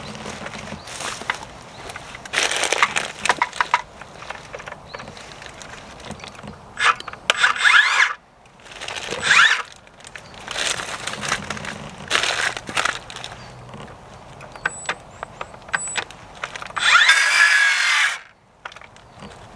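Scrap wood being handled and worked: boards clattering and knocking, with several loud scraping, squeaking bursts of about a second each, wood against wood or tool against wood.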